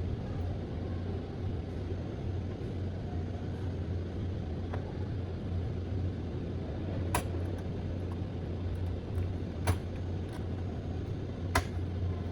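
Steady low hum with three sharp clicks, about seven, ten and eleven and a half seconds in, from computer parts being handled while a desktop system unit is put back together.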